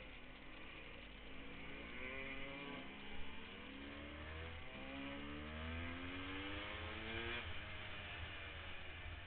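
Dirt bike engine accelerating, its pitch climbing twice as it pulls through the gears, then dropping as the throttle is backed off near the end, over a steady low rumble.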